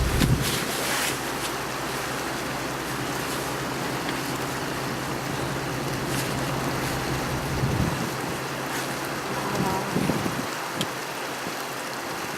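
Tour boat under way: a steady rush of wind and water, with the low hum of the boat's motor dropping away just after the start.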